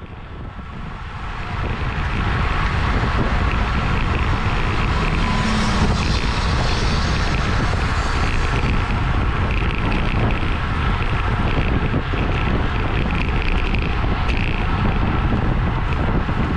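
Wind rushing over an on-bike camera microphone while cycling at race speed. It builds over the first couple of seconds and then holds steady and loud.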